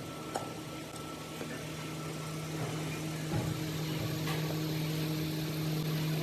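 Electric motor running with a steady hum, with a few faint clicks over it.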